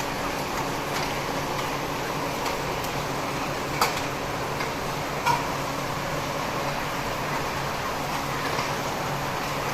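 Steady mechanical hum with a hiss, like running ventilation fans or machinery, with two short sharp clicks about four and five seconds in.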